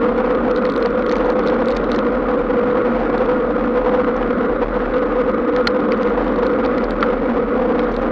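Steady road noise of tyres rolling on a wet road, a hiss with a steady hum and a few faint ticks of spray.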